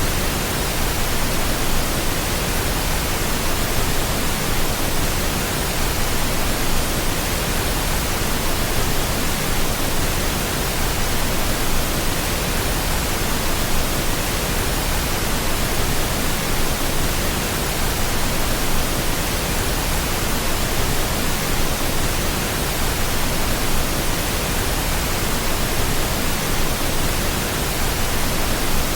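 Steady, unchanging pink noise: an even hiss spread across the whole range, played as a sleep aid.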